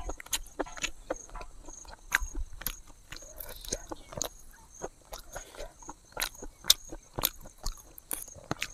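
Close mouth sounds of eating by hand: chewing and lip smacks, heard as many short irregular clicks. Insects chirp steadily in the background.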